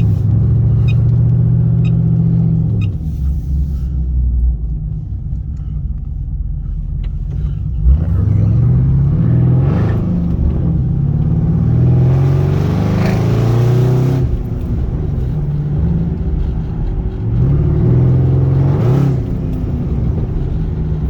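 Cammed 6.0-litre V8 of a 2009 Pontiac G8 GT with headers and full exhaust (catalytic converters kept), heard from inside the cabin while driving. It runs steadily at first, revs up under acceleration from about eight seconds in, pulls hardest near the middle before the revs drop, and revs up again shortly before the end. There is a brief knock about eight seconds in.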